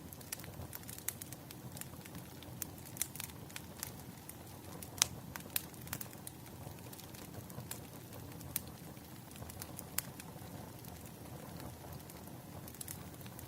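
Wood fire crackling: irregular sharp pops and snaps over a low steady hiss, with a louder pop about five seconds in and another about ten seconds in.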